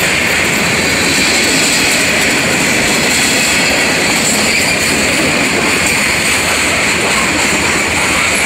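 Freight train of covered hopper cars rolling past close by: loud, steady noise of steel wheels on rail, with a high hiss over it.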